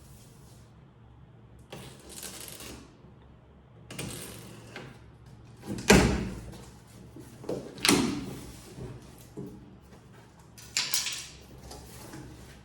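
Cardboard packaging being opened and handled: scraping and rustling of cardboard and plastic, with two sharp knocks about six and eight seconds in.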